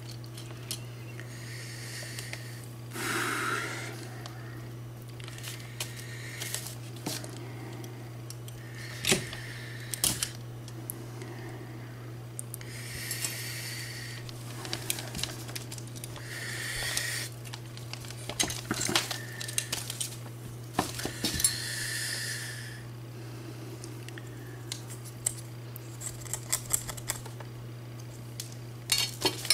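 Small metal parts of a die-cast toy car being handled on a work surface: scattered clicks and clinks, with about five brief noisy bursts of roughly a second each, over a steady low hum.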